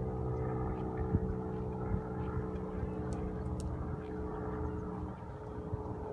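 Propeller airplane engine humming steadily with several tones, fading away about five seconds in.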